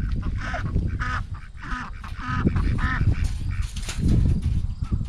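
Birds calling: a run of short calls, about two a second, through the first three seconds. A steady low rumble runs underneath, with a louder noisy burst about four seconds in.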